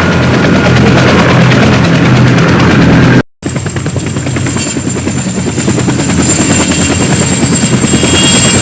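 Helicopter running close by, its rotor blades chopping in a rapid steady beat over the engine. The sound cuts out briefly about three seconds in, and afterwards a steady high-pitched whine rides over the rotor beat.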